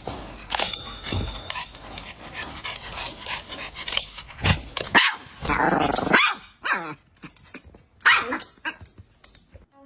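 A dog barking in irregular bursts, with a longer drawn-out call about five and a half seconds in.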